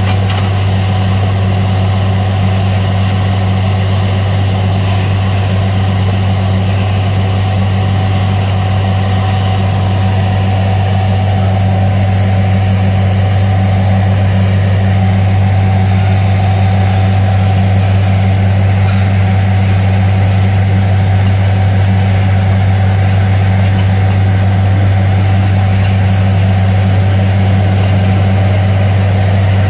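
Borewell drilling machine's engine running steadily, a loud, even, deep hum that swells slightly about halfway through.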